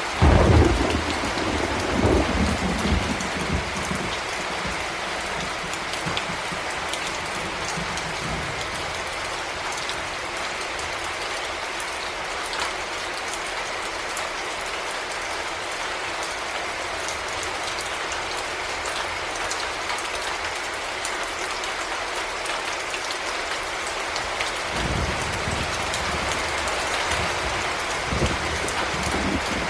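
Heavy rain falling in a steady hiss, with a sharp clap of thunder right at the start that rolls off over about three seconds, and a low rumble of thunder coming back near the end.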